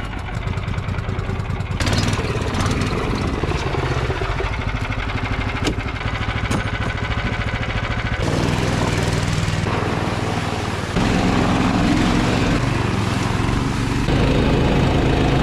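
Small engine of a Snowdog tracked snow machine running under way, changing in tone about two and eight seconds in and growing louder about eleven seconds in.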